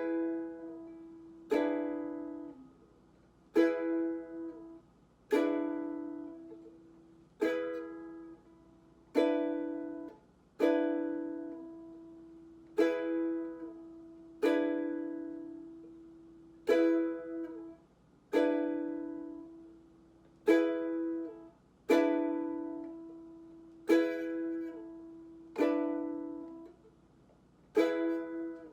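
Ukulele strummed slowly, one chord struck roughly every two seconds and left to ring out, practising the change between E and E7 chords.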